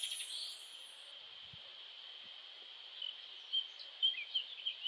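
Faint nature ambience of birds chirping over a steady soft hiss, with a cluster of short, quick chirps starting about three seconds in.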